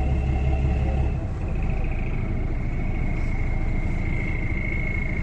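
A vehicle's engine running steadily: a low rumble that eases about a second in, with a thin high whine.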